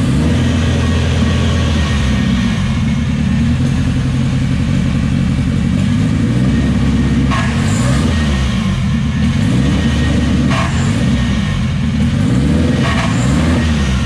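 Turbocharged Honda K-series four-cylinder running under load against the held e-brake as the clutch is let up, its engine speed rising and falling. A few short crunching bursts come from the triple-disc clutch about 7, 10 and 13 seconds in. The crunching is a sign that something is wrong inside the clutch, which is also throwing sparks.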